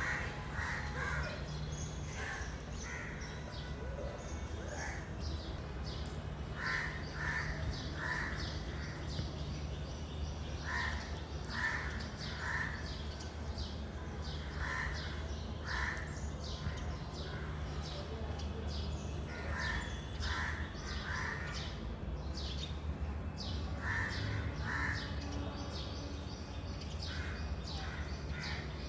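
Crows cawing repeatedly, the caws coming in runs of two or three every few seconds, over a steady low hum.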